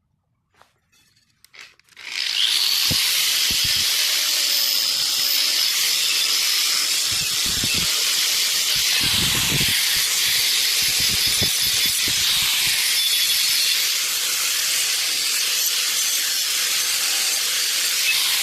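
A steady, loud hiss of compressed air starts suddenly about two seconds in, after near silence with a few faint clicks, with scattered soft knocks under it.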